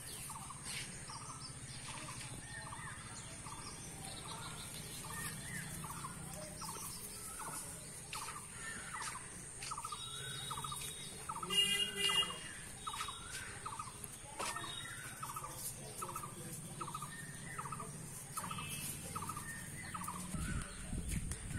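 A bird calling a short note over and over at an even pace, somewhat under twice a second. A steady high thin whine runs under it, and a brief louder, higher-pitched cry comes a little before the middle.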